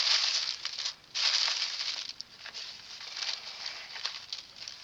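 Tissue paper crinkling and rustling as a package is unwrapped by hand: louder for about the first second, a short pause, then softer, uneven rustling.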